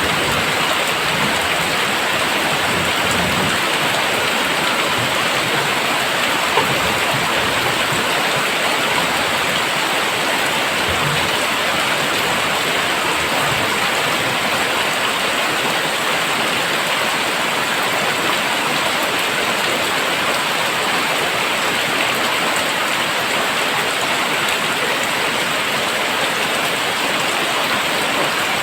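Very heavy rain falling steadily, a dense even hiss of downpour. A few faint low thuds show in the first half, and one brief sharper tick comes about six seconds in.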